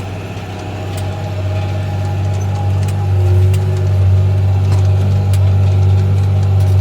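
New Holland 8970 tractor's six-cylinder diesel engine running steadily under load while pulling a disc through soft ground, a deep drone that grows louder over the first three seconds, with a few light rattles.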